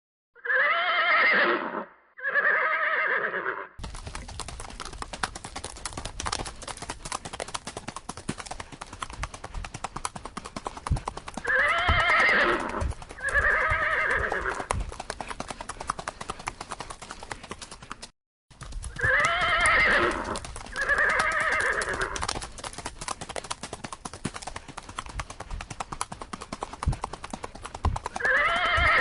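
Horse neighing in pairs of calls that come back several times, with a dense clatter of hoofbeats starting a few seconds in. The sound cuts out briefly a little past the middle.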